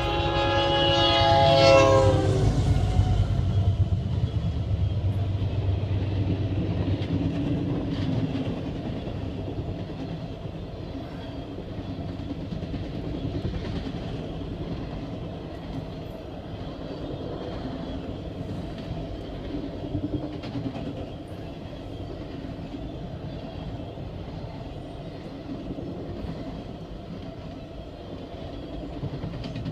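A locomotive air horn sounds a loud multi-note chord that drops slightly in pitch and cuts off after about two and a half seconds. Then comes the steady low rumble and clickety-clack of the Ringling Bros. circus train's cars rolling past, gradually easing off.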